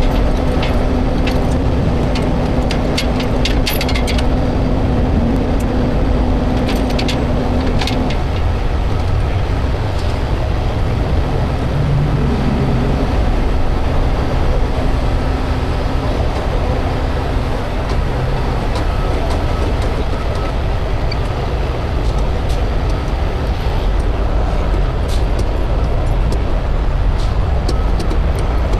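Heavy wrecker's diesel engine running steadily during a lift, a loud continuous rumble. A steady hum over it stops about eight seconds in, and a few light clicks come in the first eight seconds.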